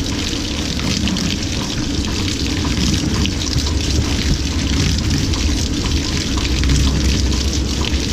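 LG 18 kg top-load washing machine filling its drum with water at the start of a delicate cycle: a steady stream of water pouring in, with a low hum underneath.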